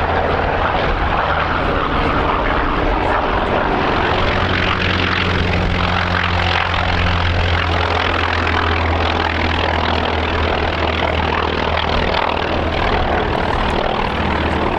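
Piston-engined propeller aircraft in flight, a steady engine drone with a low hum throughout.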